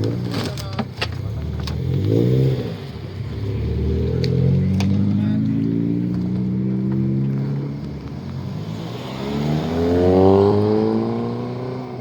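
Car engine revving up three times, rising in pitch each time, the last rev the loudest, with a few sharp clicks in the first two seconds.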